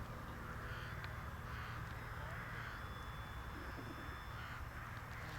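Crows cawing repeatedly, about two calls a second, over a faint steady high whine from a model aircraft's motor in flight and a low wind rumble on the microphone.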